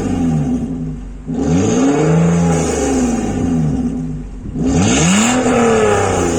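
Exhaust of a 2008 Toyota Camry's 3.5-litre V6, fitted with an electric exhaust cutout valve, as the engine is revved in blips: the pitch climbs and falls back, with fresh rev-ups about a second and a half and about five seconds in.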